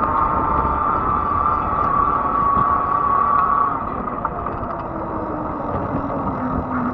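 Fat-tire e-bike on the move, with a steady high whine over the rush of riding noise. The whine drops away a little over halfway through, and a lower tone then slowly falls in pitch.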